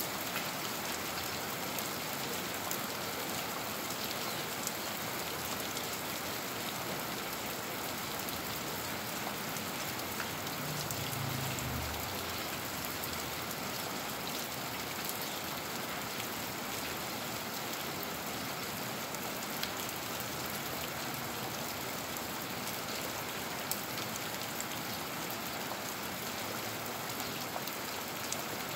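Steady rain falling on a concrete street and garden plants: a constant hiss with scattered drop ticks, and a brief low rumble about eleven seconds in.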